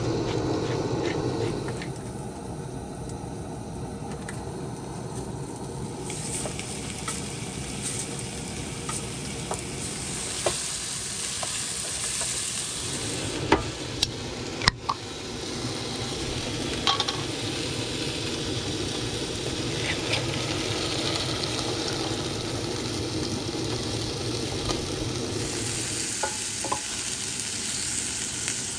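Chicken pieces frying in oil in a pan, with a steady sizzle that grows brighter in stretches, and a few sharp clicks and knocks from utensils and cookware about halfway through and near the end.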